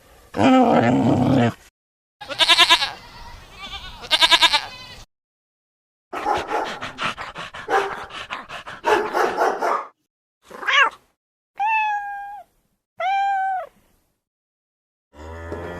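A string of separate domestic animal calls with short silences between them: a couple of high pulsing cries early on, a rapid run of clicky, grunting pulses in the middle, and three short arched calls near the end that rise and fall like a cat's meow.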